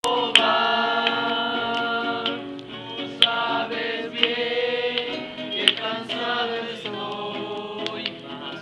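Several voices singing a Spanish-language Christian worship song together in long held notes, with a few sharp clicks scattered through it.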